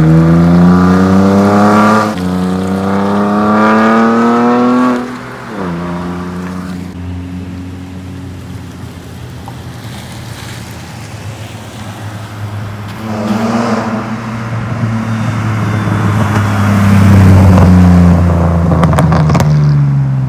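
BMW E46 with a custom exhaust accelerating through the gears: the engine note climbs, drops at a shift about two seconds in, climbs again and drops about five seconds in. It then runs steadily at a lower pitch before pulling up again from about thirteen seconds and easing off near the end.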